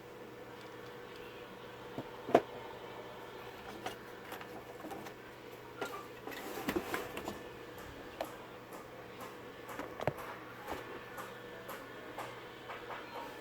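Scattered small clicks and taps of handling at a workbench, with the sharpest about two seconds in and a cluster around the middle, over a steady faint hum.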